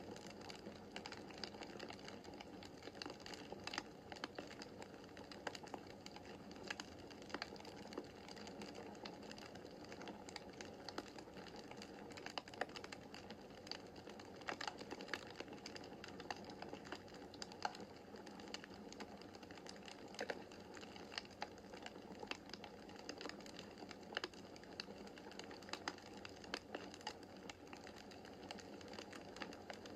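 Wood fire crackling in a fireplace: irregular sharp pops and snaps, several a second, over a soft steady rush from the flames.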